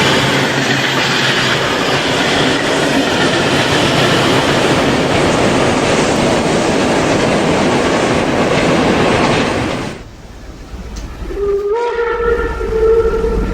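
Märklin model steam freight train running on the layout: a dense clatter of wagons rolling over the track, which drops away sharply about ten seconds in. Near the end a held whistle tone sounds, stepping up slightly in pitch.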